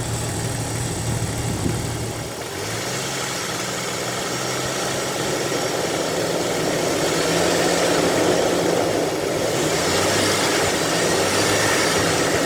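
1996 Jeep Cherokee XJ engine idling, heard from inside the cabin. About two seconds in the engine note shifts and a rushing hiss rises, swelling twice later on. At idle it sounds pretty normal; the owner's whoosh, tick and rattle shows up only when accelerating.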